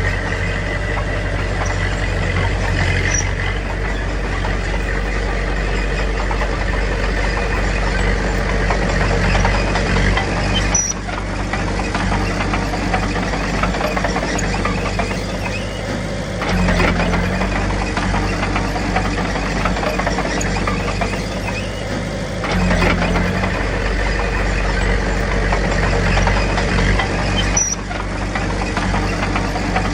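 Heavy diesel engine of earthmoving machinery running steadily, its pitch and load shifting about 11, 17 and 23 seconds in.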